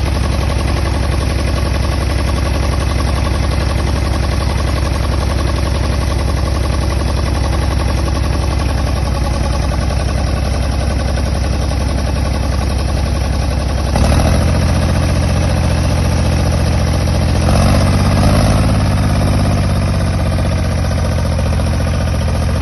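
Farm tractor's engine running steadily, then revving up sharply about two-thirds of the way through and again shortly after, as it labours to get through the river.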